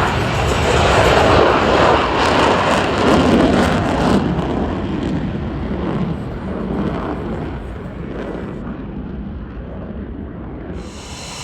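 An airplane flying past: a loud roar that peaks in the first few seconds, then fades steadily as the aircraft moves away.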